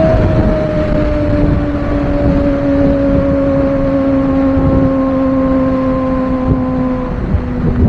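Kawasaki ZX-25R's 249 cc inline-four running through a Villain R11 aftermarket exhaust while riding. The engine note falls slowly and steadily, then changes abruptly about seven seconds in.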